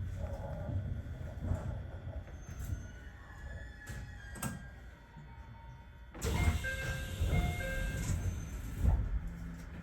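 Aichi Loop Railway 2000 series electric train rumbling to a stop, then about six seconds in its doors open with a sudden hiss and a door chime of several short tones.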